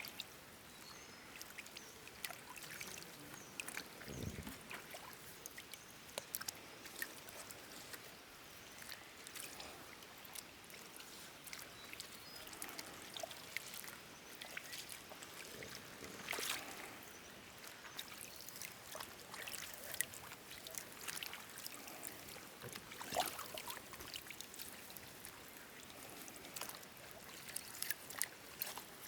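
Water trickling and splashing, with scattered light clicks and knocks and one dull low thump about four seconds in.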